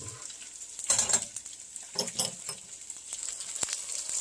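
Slices of deer heart and onions sizzling in oil in a frying pan, a steady hiss that grows stronger near the end. Two short bursts of clatter come about one and two seconds in.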